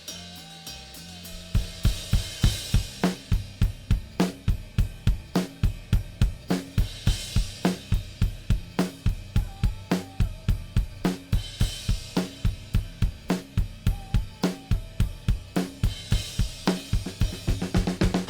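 Multitracked recording of a rock drum kit (kick, snare, hi-hat and cymbals) playing a fast, steady beat that comes in loud about a second and a half in. It is played back through a stereo bus compressor set for gentle glue compression, 2:1 ratio with 30 ms attack and 300 ms release, being switched in and out for comparison.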